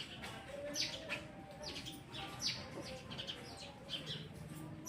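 Sparrows chirping: a flock's short, high chirps coming irregularly, several to the second at times.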